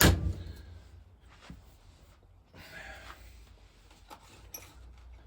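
A single sharp knock at the start, then faint scattered clicks of things being handled.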